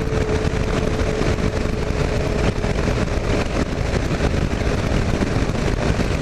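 Kawasaki KLR 650 motorcycle running steadily at highway speed, heard over a heavy rush of wind noise, with a faint steady whine that fades out about halfway through.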